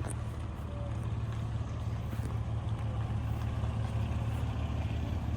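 A steady low engine rumble with a faint background hiss.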